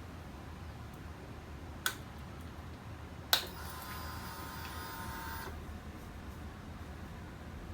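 Two clicks, then a steady electric whine for about two seconds that stops: a Harley-Davidson Sportster's fuel pump priming after the ignition is switched on, just before the engine is started.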